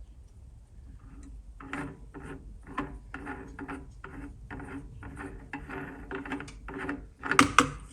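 Hole cutter scraping into plate as it cuts out a baffle disc, in rhythmic strokes about three a second, with a louder clatter near the end.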